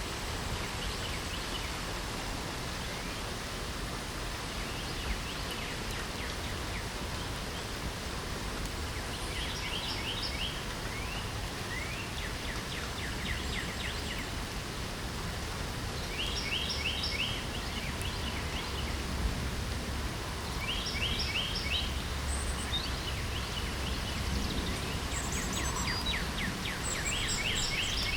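Steady light rain falling, with a songbird singing short phrases of rapid, repeated notes every few seconds and a few higher chirps near the end.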